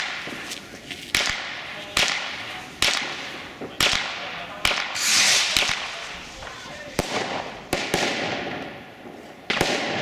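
Fireworks going off: about eight sharp bangs, irregularly spaced roughly a second apart, each followed by a short fading echo, with a burst of crackling about five seconds in.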